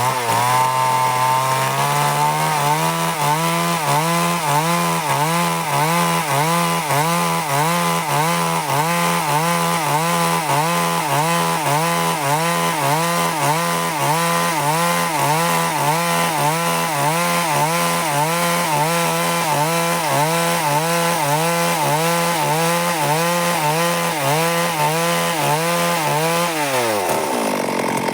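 Stihl MS 382 two-stroke chainsaw running at high revs as it cuts wood lengthwise, its pitch wavering in a steady rhythm. Near the end the revs drop away as the throttle is released.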